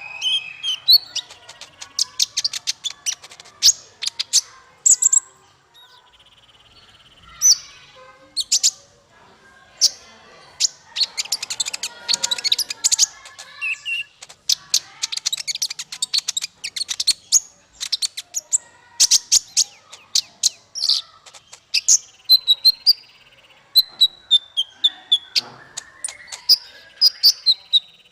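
Small songbird singing a rapid, varied song of sharp high chirps and trills, broken by a few short pauses and a couple of steady whistled notes.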